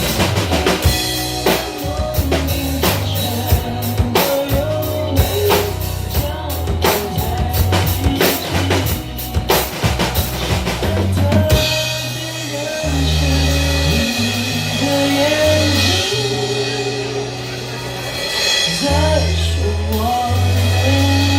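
Live band playing a pop song, with a full drum kit (bass drum, snare and rimshots) driving the first half; about halfway the drums drop out, leaving held bass notes under a wavering melody.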